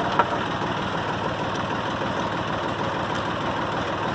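Massey Ferguson 231 tractor's three-cylinder diesel engine idling steadily, with a couple of short sharp clicks just after the start.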